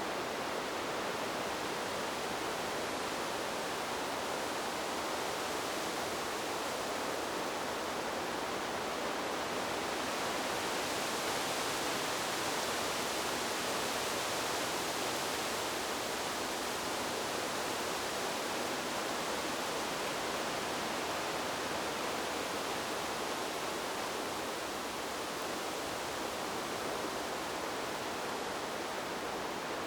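Wind blowing through trees: a steady rushing hiss that swells slightly, brighter in the middle, then eases a little near the end.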